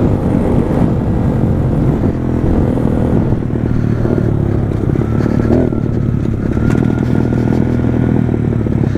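Pit bike engine running under way, its pitch rising and falling a little as the throttle changes.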